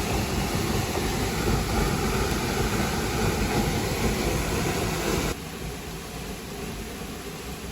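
Steady rush of falling water from a waterfall, dropping abruptly to a lower level about five seconds in.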